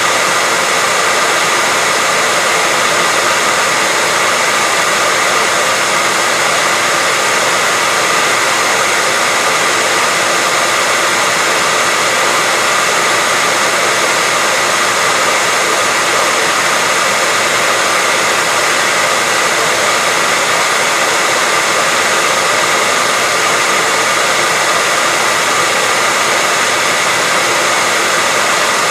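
Hair dryer running steadily at a constant speed: an even rush of blown air with a faint high motor whine.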